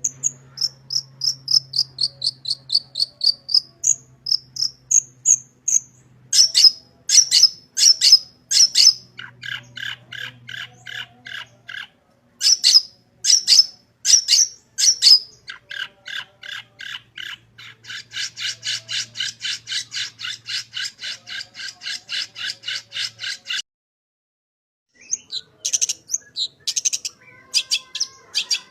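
Long-tailed shrike (cendet) singing loudly in full song, stringing together quick sharp chips, short whistled slurs and long buzzy rattling trills, the song packed with mimicked phrases. It breaks off abruptly for about a second and a half near the end, then resumes with sharp calls.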